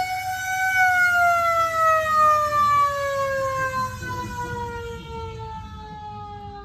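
Siren sounding one long tone that rises slightly, then slides slowly down in pitch and fades, as if winding down.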